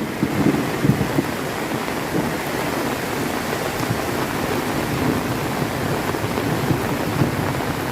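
Heavy rain falling steadily, with a low roll of thunder dying away in the first second or two.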